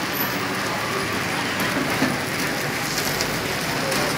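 Batter frying in hot oil in a wok over a gas burner, with a steady sizzle.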